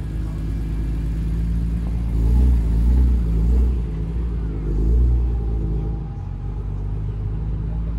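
BMW E46 M3's straight-six engine running with a deep exhaust rumble, revving up twice as the car pulls away: once about two seconds in and again briefly around five seconds.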